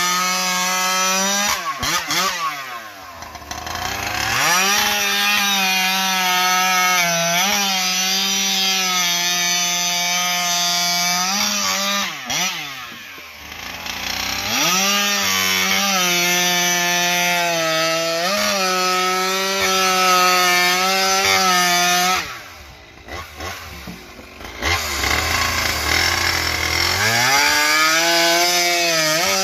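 Ported Stihl MS 661 two-stroke chainsaw with a tuned expansion-chamber pipe, held at full throttle while cutting slices from a spruce log. The engine note stays high and steady under load. Three times, about 2, 12 and 22 seconds in, it drops off throttle and then revs back up for the next cut.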